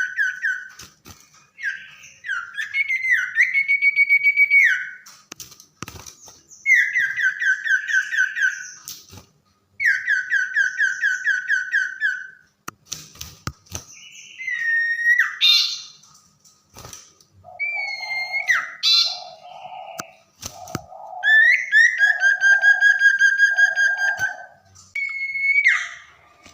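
Common iora singing: rapid, buzzy trills about two seconds long, repeated several times, alternating with short rising whistles. In the second half a run of five lower, shorter notes sounds beneath the song, and there are a few sharp clicks.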